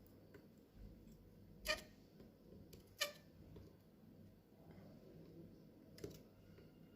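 Two sharp clicks about a second apart and a softer one near the end, from small parts being handled, over faint room tone.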